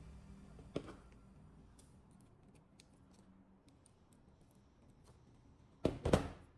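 Small handling clicks, then a loud, short scraping crunch about six seconds in, as small parts or tools are worked by hand. Faint background music fades out early.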